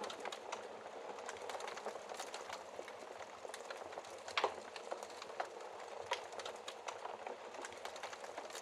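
Wood fire burning in a fireplace: a steady low hiss with frequent irregular crackles and pops, the loudest pop about four and a half seconds in.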